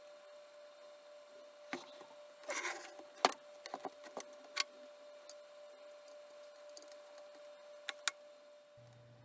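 Handling noises: a short scraping rub and a scattering of sharp clicks and knocks, the loudest about a third of the way in, over a faint steady whine.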